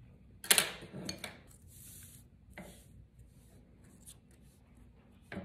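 Cardstock and copper tape being handled and rubbed down by hand: a loud crackle of paper about half a second in, then a short hissing rub and a second brief one, with a few light taps near the end.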